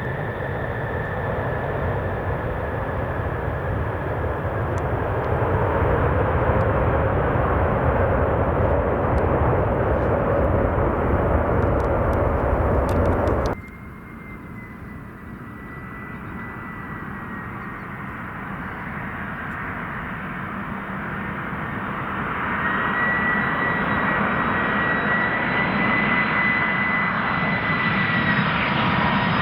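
Boeing 747 jet engines on landing approach: a loud rumble with a steady high whine builds, then cuts off abruptly about halfway through. A second 747's engine whine and rumble then builds again from quieter.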